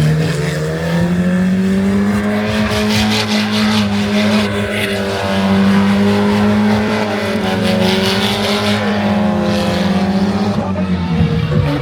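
Stunt vehicle engine running hard at high, fairly steady revs, its pitch rising and dipping slightly as it is driven around the arena.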